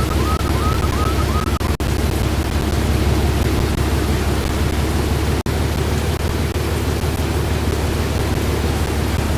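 Strong wind rushing over the microphone, a loud steady noise heavy in the low end. A short high chirping tone repeats about three times a second for the first second and a half, and the sound cuts out twice for an instant.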